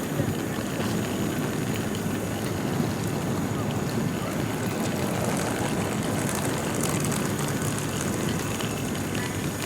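Steady low rumble and hiss of aircraft cabin noise inside a Boeing 737 MAX 8-200 on the ground after landing, engines running.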